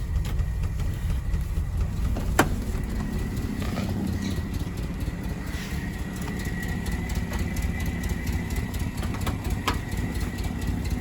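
1959 Standard 10's 948cc petrol engine idling steadily, with two sharp clicks, one about two seconds in and one near the end.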